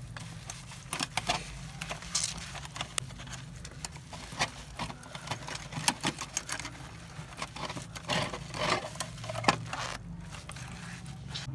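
Irregular light clicks and knocks, like small metal parts being handled and tapped, over a steady low hum.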